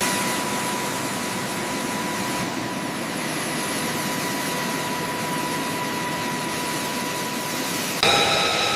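Aircraft turbine engine running steadily: a broad rushing noise with a steady high tone in it. About eight seconds in, the sound switches abruptly to a different engine tone.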